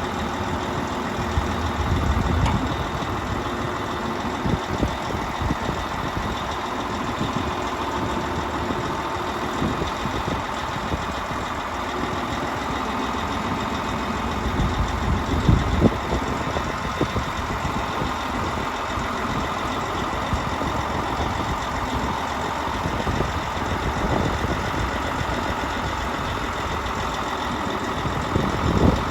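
Diesel engines of a Bitelli BB632 paver and a DAF hook-lift truck running steadily, with a few louder knocks about halfway through and near the end.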